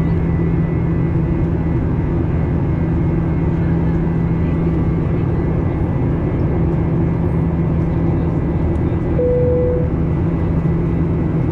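Steady engine and airflow noise inside the cabin of a Boeing 737-800 with CFM56-7B turbofans, with a constant low hum. A short single tone sounds about nine seconds in.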